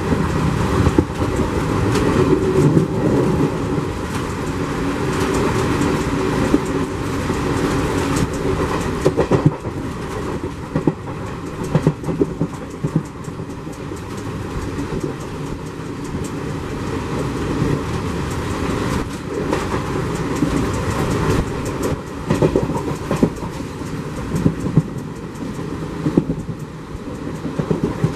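A moving Indian Railways passenger coach heard from its open doorway: a steady running rumble with the wheels clattering irregularly over rail joints.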